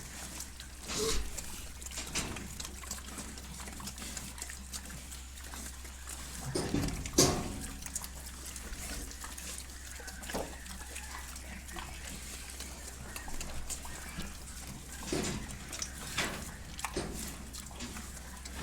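Pig squalling and grunting in short scattered calls, the loudest about seven seconds in, over a steady low hum.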